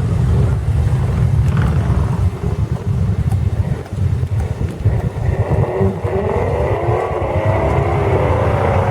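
Mud truck engine running loud, with its pitch rising and falling from about five seconds in as it revs.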